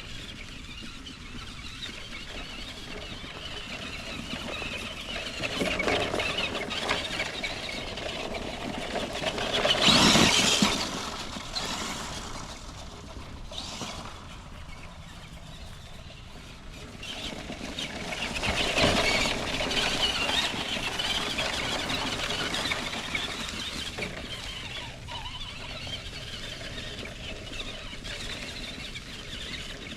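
A 1:10 solid-axle RC monster truck driving through the woods: its brushed electric motor and gears whine, with the noise of its tyres through leaves and brush. The sound swells a few seconds in, is loudest about ten seconds in, and surges again around nineteen seconds.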